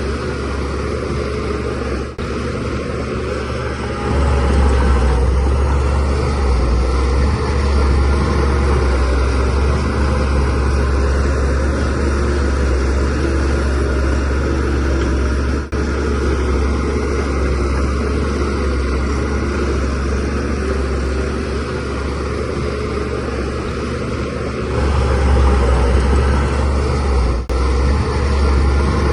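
DH17C3 bulldozer's diesel engine running steadily under load while pushing soil, getting louder about four seconds in and again near the end, with a few very brief dips.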